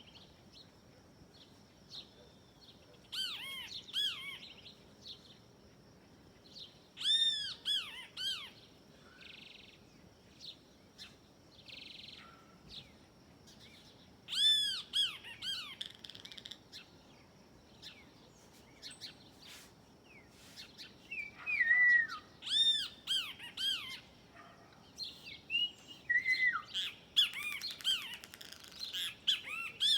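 Great kiskadees (bem-te-vi) calling: groups of two or three sharp, rising-and-falling notes every few seconds, coming thicker near the end.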